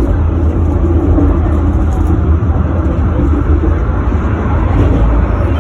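Tram running, a steady, loud low rumble with no distinct knocks or changes.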